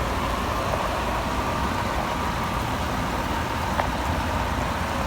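A heavy vehicle's engine idling steadily, with a faint steady tone above it and a single small click about four seconds in.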